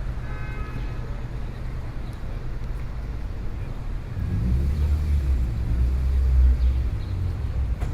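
Low motor-vehicle rumble that swells louder about halfway through and eases off near the end.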